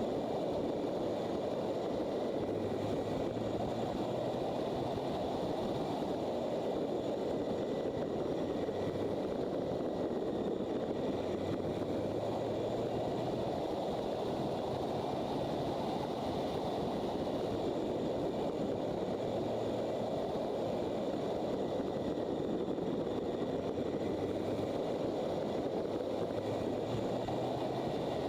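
Motorcycle riding along at steady speed: an even rush of wind and road noise over the microphone, with a low engine hum that comes and goes faintly underneath.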